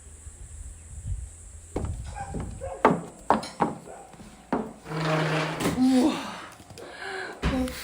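Several sharp knocks and clatters, with a longer rough rubbing scrape about five seconds in.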